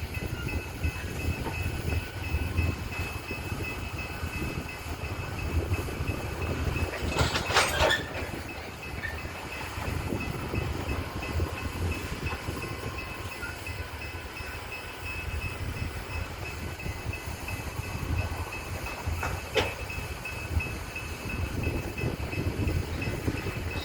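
Loaded coal train rolling slowly on the rails, a steady low rumble of wheels and cars with a faint high steady tone. About seven seconds in comes a short harsh metallic burst, and a single sharp click follows about twelve seconds later.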